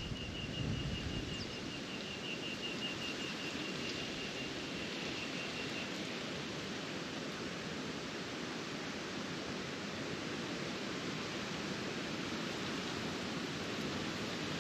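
Wind blowing steadily, with buffeting gusts on the microphone near the start. For the first six seconds a high, rapid ticking call repeats about five times a second, fading out.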